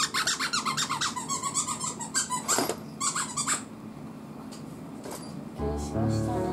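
Rapid, high-pitched squeaking of a plush toy's squeaker as a Shiba Inu bites and tugs at it, stopping about three and a half seconds in. Background music starts near the end.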